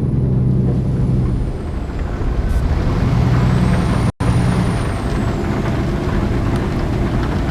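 Scania G-series heavy truck's diesel engine running, a steady low drone that cuts out for an instant about four seconds in.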